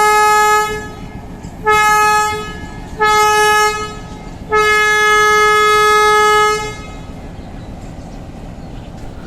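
Train locomotive horn sounding one steady pitch in a series of blasts: one already going at the start cuts off, then two short blasts and a final long blast of about two seconds.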